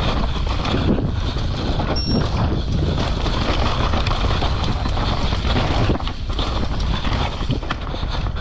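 Mountain bike descending a rough trail, heard from a body- or helmet-mounted action camera: a steady rush of wind on the microphone with tyre and rattle noise from the bike over roots and rocks. A brief high squeak sounds about two seconds in.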